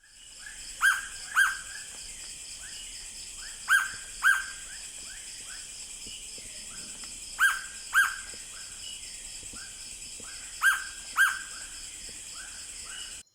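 Hooded pitta calling: a loud double whistle given four times, about every three seconds, with fainter calls between, over a steady high-pitched hiss.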